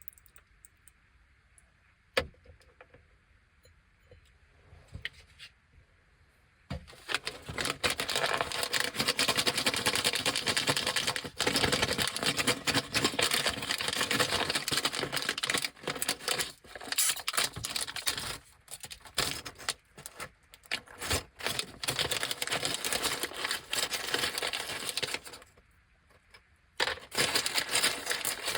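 Plastic snack bag of Anpanman puffed corn snacks being handled and opened: a few faint clicks, then from about a quarter of the way in a dense, loud crinkling and rustling with short pauses, returning briefly near the end.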